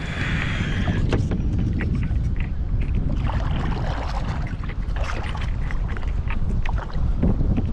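Kayak paddle strokes splashing in lake water, two splashy strokes with scattered drips and light knocks, over a steady low rumble on the microphone.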